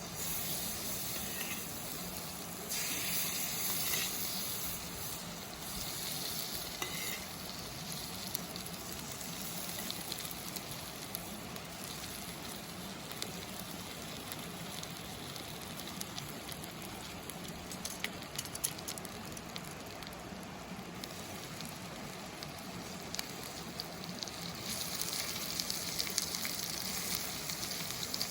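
Food frying in oil in a pan over a campfire: a steady sizzle with scattered pops, growing louder about three seconds in and again near the end.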